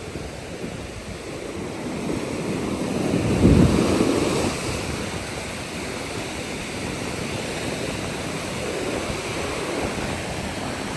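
Ocean surf washing onto the beach, with one wave breaking loudest about three and a half seconds in, and wind buffeting the microphone.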